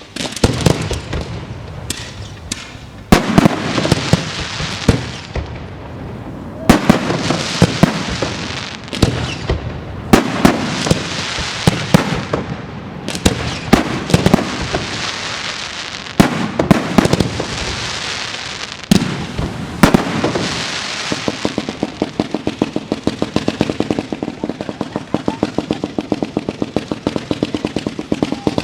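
Fireworks going off: repeated sharp bangs with crackling and hissing between them, then, about two-thirds of the way through, a fast, even run of pops.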